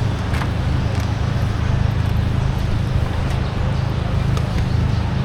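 Steady low rumble of a running vehicle engine, with a few light knocks and clicks scattered through it.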